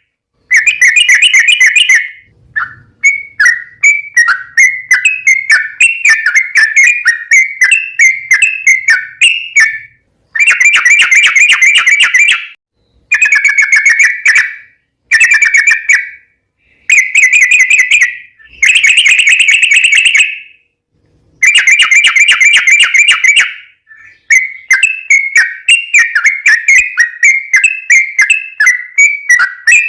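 Yellow-vented bulbul (trucukan) singing loudly: a string of quick, bubbling chattering phrases around 2 kHz, each lasting one to two seconds with brief pauses between them, and longer runs of tumbling warbled notes near the start and again near the end.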